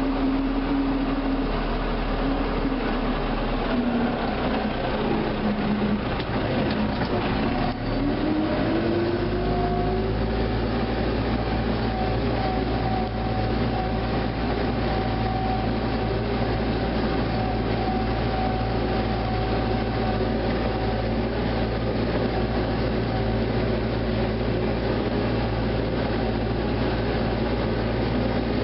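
MTZ 952.4 tractor's diesel engine running steadily in the field, with a whine that dips in pitch, then climbs and holds at a higher pitch about a third of the way in.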